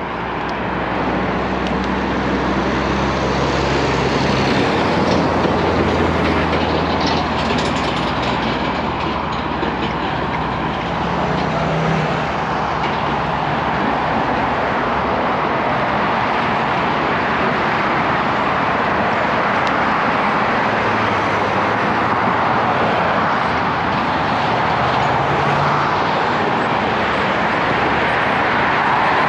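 Steady road noise from motor traffic while cycling along a busy city street, with the low hum of passing vehicle engines near the start and again past the middle.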